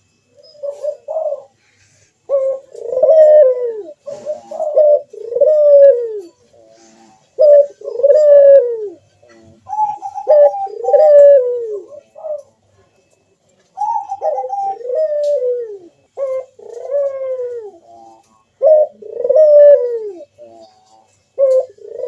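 Puter doves (domestic ringneck doves) cooing their song: a steady run of low coos about every second and a half, each falling in pitch at its end, a few opening on a higher held note first.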